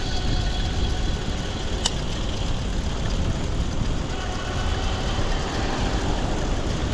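Wind rushing over the microphone and tyre noise as an electric bike coasts fast down a long hill, with a faint steady whine and one sharp click about two seconds in.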